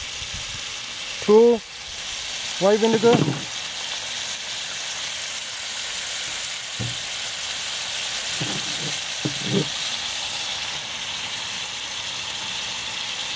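Sliced onions and tomato wedges sizzling steadily in hot oil in a pan.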